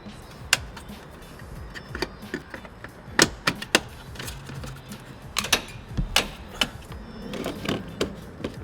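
Irregular sharp clicks and taps of small plastic and metal parts being handled, as blade fuses are fitted into a fuse block. The loudest clicks come a little after three seconds in.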